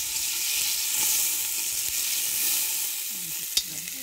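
Onions and green chillies sizzling as they fry in hot oil in a cast-iron pot, a steady hiss, with one sharp click about three and a half seconds in.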